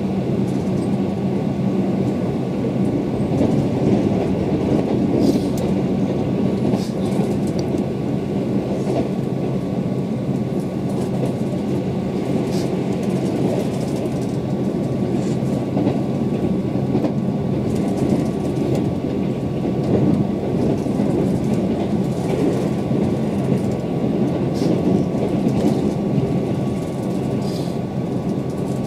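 Interior running noise of a Keihan 8000 series train at speed: a steady rumble with scattered light clicks from the wheels over the track.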